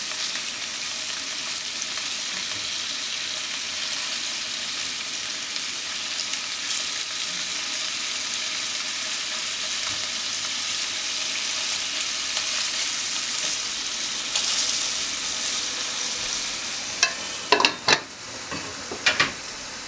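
Pork-wrapped potato sticks sizzling in oil in a nonstick frying pan while they are turned over with chopsticks. Near the end come several sharp knocks as a glass lid is set on the pan, and the sizzle goes quieter under it.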